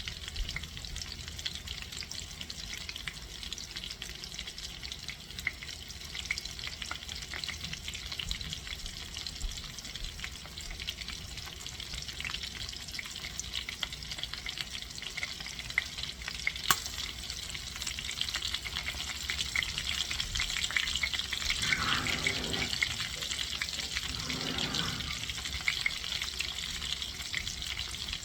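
Chicken thighs frying in butter and oil, a steady sizzle with fine crackling that grows louder over the second half.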